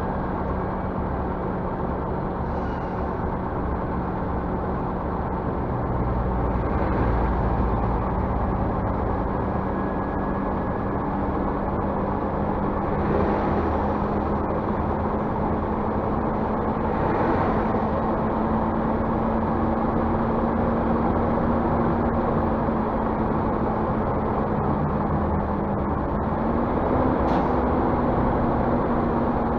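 Scania bus running: steady engine and road noise with a constant low drone that rises a little in pitch near the end.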